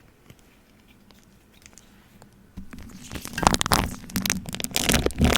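Plastic wrap stretched over a microphone being rubbed and handled close up: after about two and a half seconds of near quiet, dense crinkling and crackling starts and grows louder.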